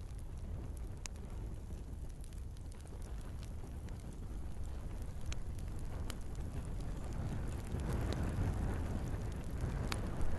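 Wood fire burning in a fireplace: a low steady rush of flames with scattered sharp crackles and pops from the logs, the flame noise swelling a little louder about eight seconds in.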